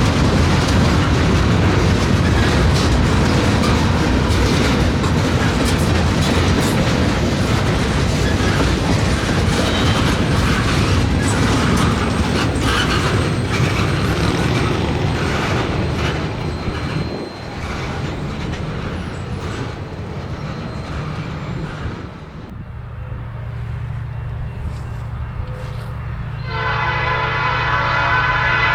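Railcars rolling past close by, wheels clicking over the rail joints, with the noise easing off about two-thirds of the way through. A steady low engine hum follows, then a diesel locomotive's multi-chime air horn sounds loudly near the end.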